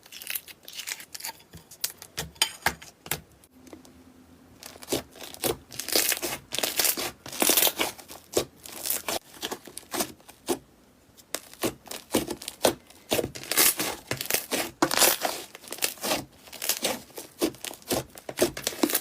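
Slime being squeezed and worked by hand, with dense crackling and popping clicks that come in busy spells with a short lull in the middle.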